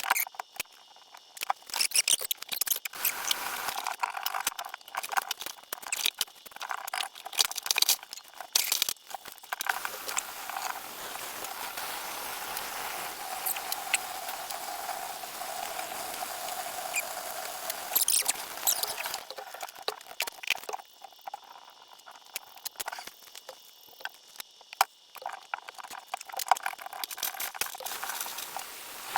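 Wet squelching and crackling clicks from hands pulling the innards out of a freshly plucked chicken carcass, with a steadier rushing hiss for several seconds in the middle.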